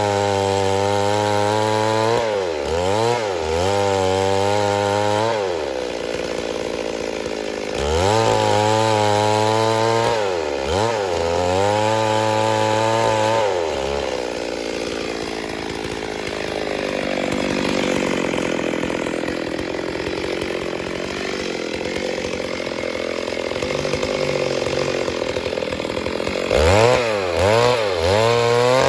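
Stihl MS 382 two-stroke chainsaw running under load, its engine pitch repeatedly dropping and recovering as it cuts. A longer middle stretch has a steadier, noisier sound with the engine note less distinct.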